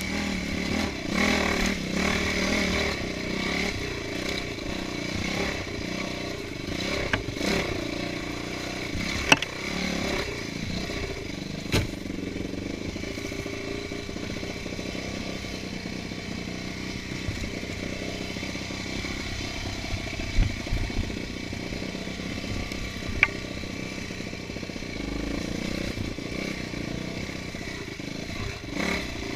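Trail motorcycle engine running as it rides a rough dirt trail, its pitch rising and falling with the throttle, with a few sharp knocks and clatter along the way.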